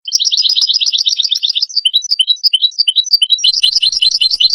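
European goldfinch calling, starting abruptly with a fast, dense trill of high twittering notes, then slower separate chirps. This is the flock-contact twitter used as a trapping lure.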